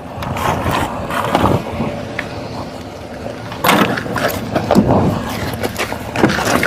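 Steady vehicle rumble with several scrapes and knocks, the loudest about four seconds in and again near five and six seconds.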